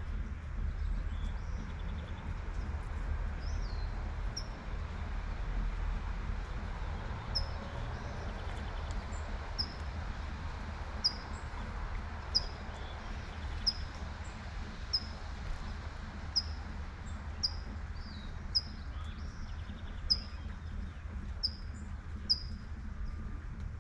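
Light rain hissing steadily over a low rumble of distant traffic. From about a third of the way in, a bird repeats one short, high chirp about once every second and a bit.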